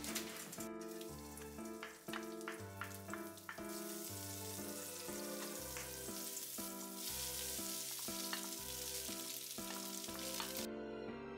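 Minced garlic and chopped chili sizzling in hot oil in a wok, stirred with a wooden spatula, with a few sharp clicks early on. The sizzle gets louder about four seconds in and cuts off suddenly near the end. Soft background music plays throughout.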